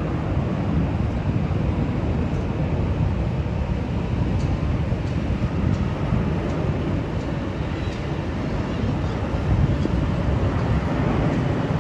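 Airbus A380 jet engines on landing approach: a steady, deep rumble with most of its weight in the bass.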